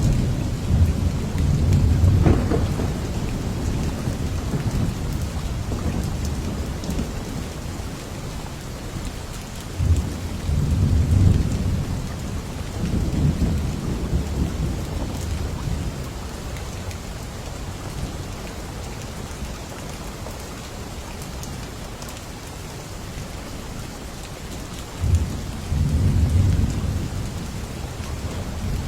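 Steady heavy rain with rolls of low thunder rumbling in three times: at the start, about ten seconds in, and near the end.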